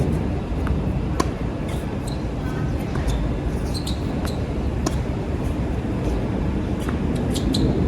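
Strong wind buffeting the microphone as a constant low rumble, with sharp knocks of tennis balls being struck.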